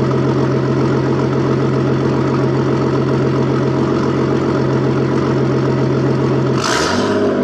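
Nissan RB25DET NEO turbo straight-six running through a straight-pipe exhaust, idling with a steady note. Near the end a brief hissing burst comes in and the engine note starts to shift as the engine is revved.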